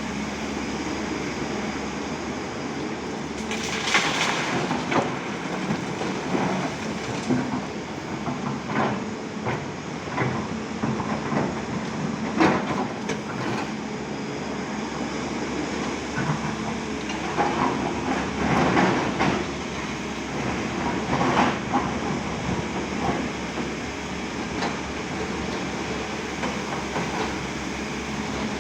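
Excavator at work: its diesel engine running steadily under irregular metallic clanks and scrapes, loudest about four seconds in, about twelve seconds in and again between seventeen and twenty-two seconds in.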